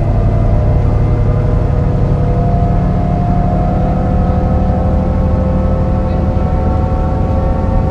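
MAN NL202 CNG city bus driving under load, its gas engine running with a bad misfire. The ZF Ecomat five-speed automatic gearbox whines over a heavy engine rumble, and the whine rises slowly in pitch through the second half as the bus gathers speed.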